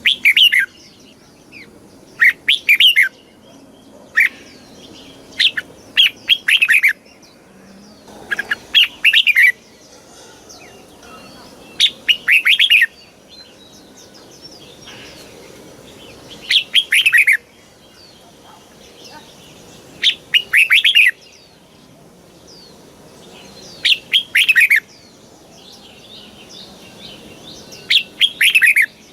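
Red-whiskered bulbul singing short warbled phrases, about ten of them, repeating every three to four seconds.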